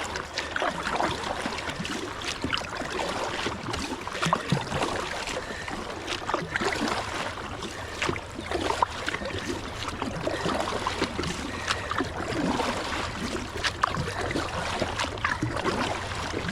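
Kayak paddle strokes splashing in fast river current, with water washing along the hull of a Moken 12.5 V2 kayak as the paddler pulls hard upstream against the current. Many small irregular splashes over a steady rush of moving water.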